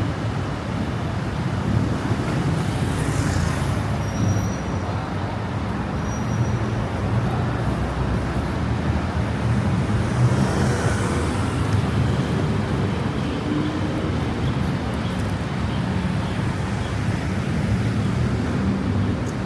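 Steady city road traffic: car and bus engines running in a constant low rumble, swelling a couple of times as vehicles pass.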